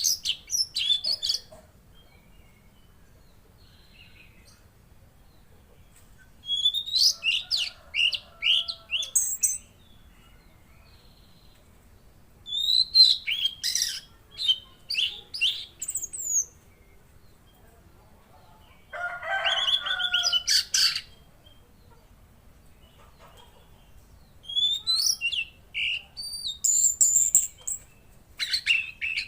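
Mangrove blue flycatcher (tledekan laut) singing in phrases of quick, falling whistled notes, each phrase a few seconds long with pauses between. About 19 seconds in, a lower, harsher call of about two seconds.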